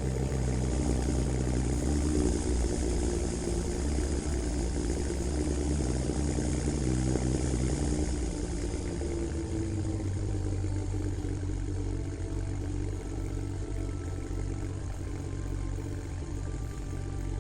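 Heavy-vehicle engine running steadily, its note shifting about halfway through.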